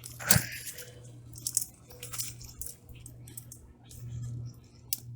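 Irregular crunching and crackling as someone moves through dry brush and debris, with a sharp crack about a third of a second in.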